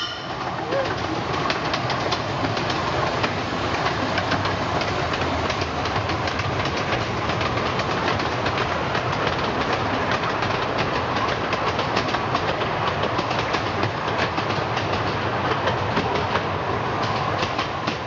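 Small-gauge steam-hauled passenger train rolling past, its coach wheels clattering steadily with rapid clicks over the rail joints; the sound fades near the end.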